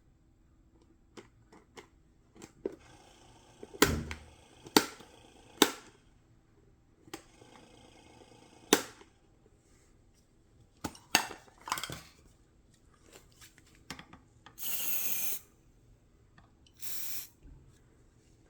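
Clicks and knocks of an electric fan's parts and tools being handled during repair, then two short bursts of hiss, the first about a second long and the second about half a second, typical of an aerosol spray.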